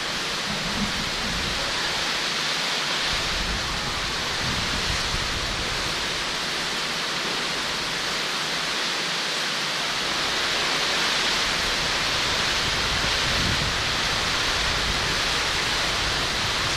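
Heavy thunderstorm rain falling steadily as a dense hiss, with low rumbling about three seconds in and again from about ten seconds on, where it grows a little louder.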